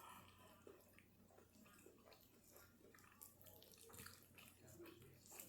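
Near silence: faint scattered small clicks over a low steady hum.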